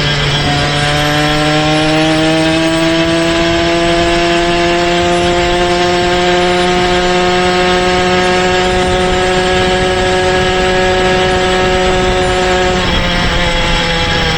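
Small engine of a motorized bicycle running under way, its pitch stepping up about half a second in and then climbing slowly as it pulls, with a brief drop in revs near the end.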